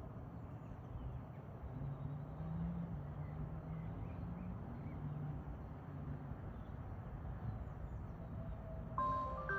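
Low steady outdoor rumble with a faint hum that holds through the middle. Near the end, a few bell-like music notes begin.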